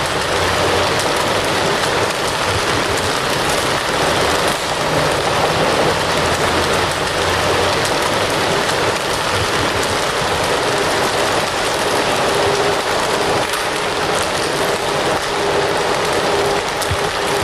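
Fire crackling steadily, a dense hiss of many small pops and snaps.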